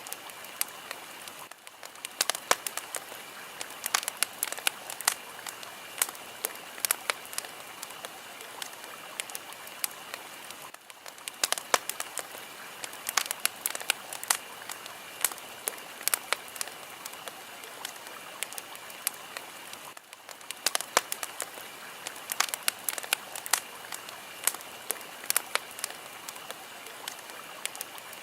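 Fire crackling: a steady hiss with frequent sharp pops and snaps. It is a short recording looped, with a brief lull about every nine seconds.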